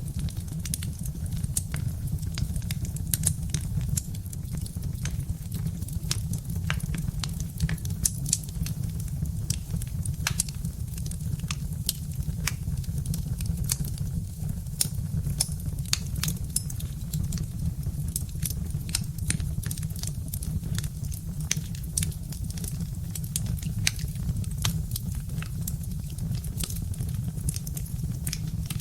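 Birch-log wood fire crackling: frequent irregular sharp pops and snaps over a steady low rumble.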